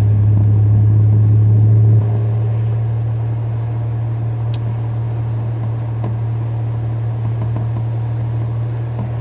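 Truck engine and road noise while driving: a steady low drone that eases off about two seconds in.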